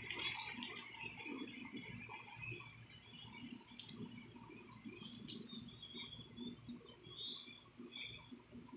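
Faint, scattered bird chirps with a few soft clicks.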